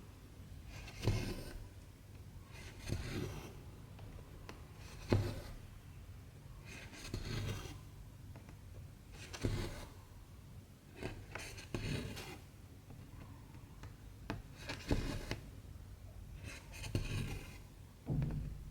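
Cotton embroidery thread being drawn through 14-count cross-stitch fabric, stitch after stitch: a short rasping swish about every one to two seconds, a few of them starting with a sharp tick.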